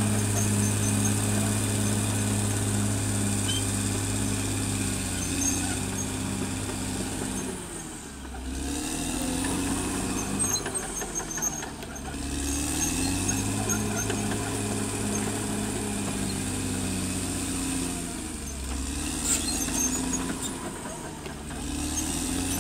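Caterpillar D6R XL bulldozer's diesel engine running steadily. Several times its pitch sags and then climbs back, as the engine pulls down under load and recovers.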